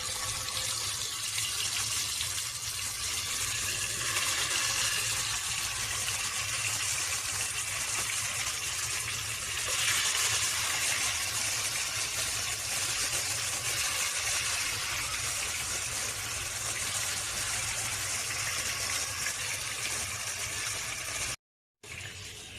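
Marinated chicken pieces sizzling as they fry in hot olive oil, a steady hiss that swells briefly about halfway through.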